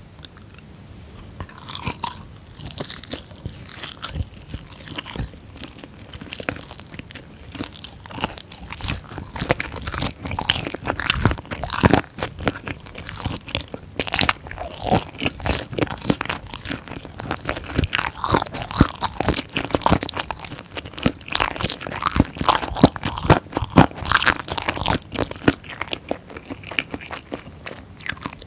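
Close-miked biting and chewing of spicy sauced chicken feet: a fast run of crunchy clicks and crackles that gets busier in the middle and thins out near the end.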